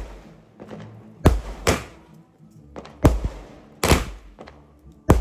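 Fireworks going off: five sharp bangs at uneven gaps of about a second, each trailing off in an echo.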